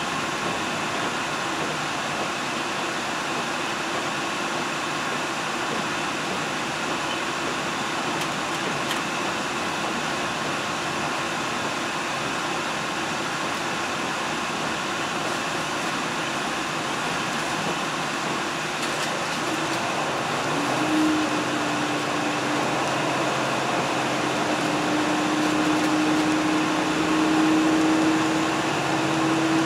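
Steady running noise inside a moving diesel train car: wheels on rail and a constant rush of air and cabin hum. About twenty seconds in, an engine hum comes in and slowly rises in pitch as the train picks up speed.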